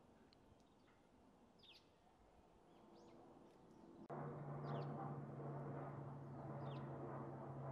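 Small birds chirping: short, sharp calls that drop in pitch, several times. About halfway through, a much louder steady low hum with a droning tone starts abruptly and runs on under the chirps.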